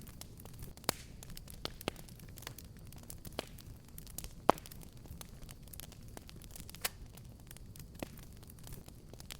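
Wood fire in a fireplace crackling: irregular sharp pops and snaps over a low steady rumble of burning. The loudest pop comes about halfway through.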